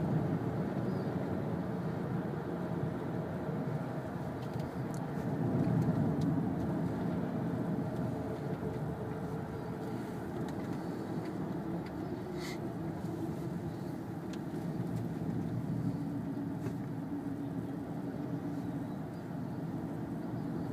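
Steady road and engine noise inside a moving car's cabin, with a brief high click about twelve seconds in.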